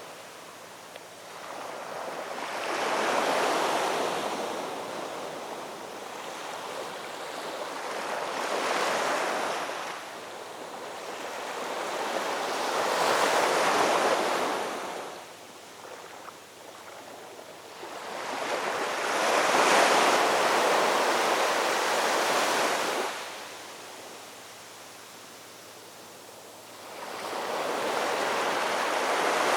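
Ocean surf: waves breaking and washing in, one after another, each swelling up and then falling away every five or six seconds.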